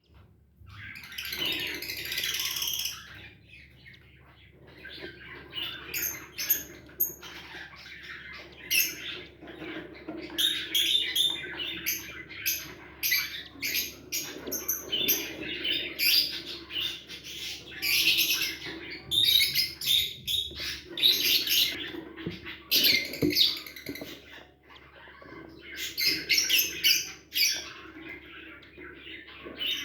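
Cockatiel chirping and calling, with repeated short chirps and whistles in clusters and a few brief pauses.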